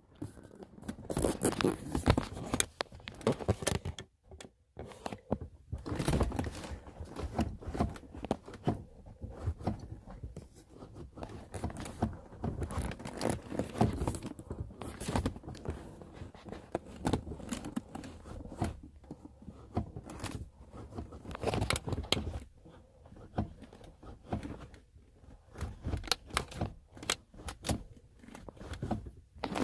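Irregular rustling, scraping and crinkling handling noise with scattered clicks, coming and going throughout.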